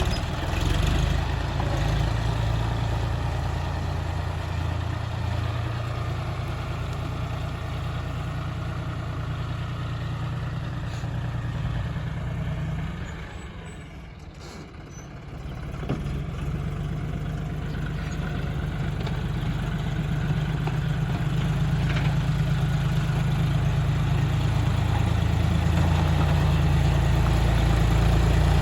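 John Deere 3510 tractor's diesel engine running steadily. It drops away briefly about halfway through, then grows louder toward the end.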